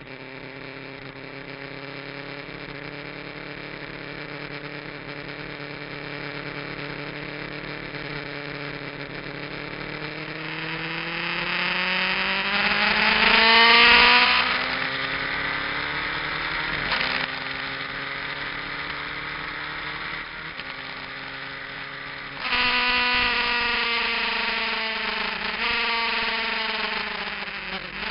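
Kawasaki GPZ900R's inline-four engine with an aftermarket muffler, under way on track: it runs steadily, then the revs climb to a loud peak about halfway through, drop sharply in a brief gear change, and after a sudden opening of the throttle a little before the end, the revs slide down.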